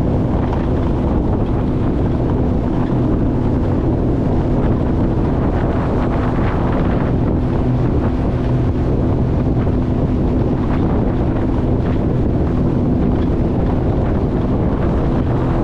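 Jet ski engine running at a steady speed, a constant low hum, under heavy wind buffeting on the microphone.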